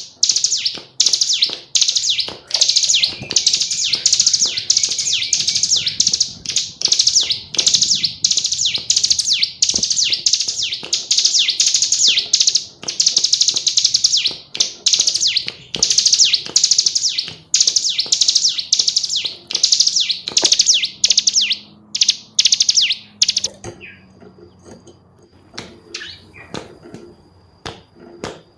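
Female ciblek gunung, a prinia, calling in a rapid, lively run of high chattering notes, several a second. The calls stop near the end, leaving scattered clicks and a thin high tone.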